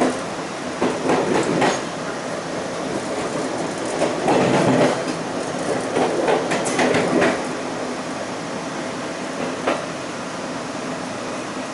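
A train rolling along the track, its wheels clattering over rail joints in irregular bursts over a steady rumble.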